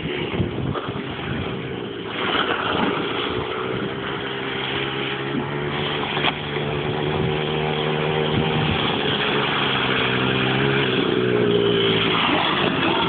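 Yamaha Blaster ATV's two-stroke single-cylinder engine running under load while towing, its revs held steady and climbing slowly through the middle. There are scattered knocks in the first couple of seconds and one sharp knock about six seconds in.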